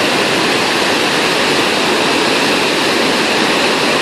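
Steady, loud rush of Iguazu Falls, a vast mass of water pouring down without a break.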